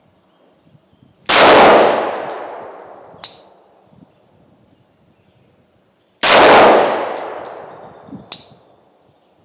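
Two gunshots from a 9mm pistol firing 124-grain rounds, about five seconds apart, each with a long echoing tail. A short sharp metallic tick follows each shot about two seconds later.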